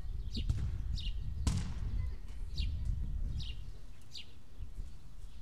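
A bird calling over and over, a short high chirp falling in pitch about once a second, over a steady low rumble on the microphone. There is one sharp click about one and a half seconds in.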